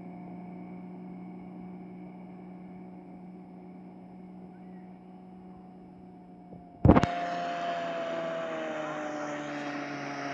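Small speed boat's engine running steadily at a distance. About seven seconds in there is a sharp click, and the engine is then heard louder and closer with a rush of wind and water, its pitch easing slightly down.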